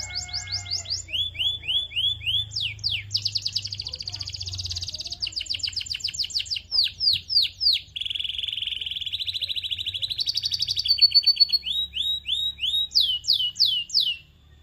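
Canary singing a long, unbroken song of rapid rolling trills and repeated downward-sweeping whistled notes, stopping abruptly just before the end.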